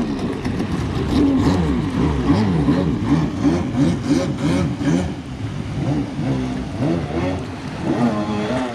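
Stand-up jet ski with a swapped-in DASA two-stroke engine being ridden hard, its pitch rising and falling over and over as the throttle is worked.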